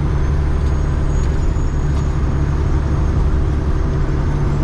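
Steady drone of a Freightliner FLD120's Cat 3406E inline-six diesel pulling at road speed, heard inside the cab with road noise.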